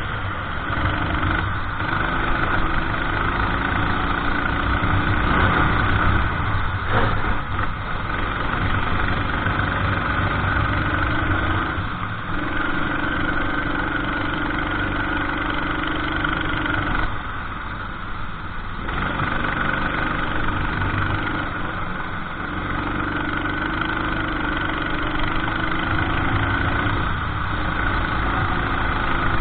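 Racing kart engine running hard on track, its note climbing as it accelerates and dropping away when the driver lifts off for corners, with a longer lift about two-thirds through.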